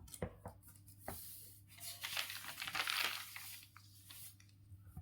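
Faint clicks in the first second, then a soft rustle for a couple of seconds, over a steady low hum.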